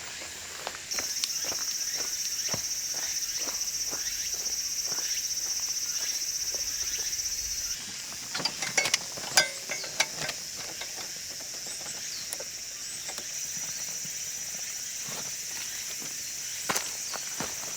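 Insects droning in a steady high-pitched chorus that starts about a second in and cuts off abruptly near the middle, with a fainter chorus coming back later. Scattered footsteps and clicks sound over it.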